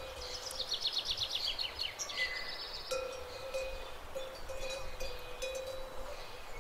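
A songbird singing: a fast trill of notes falling in pitch about a second in, then a shorter phrase, over rural outdoor ambience. From about three seconds in, faint ringing of cowbells.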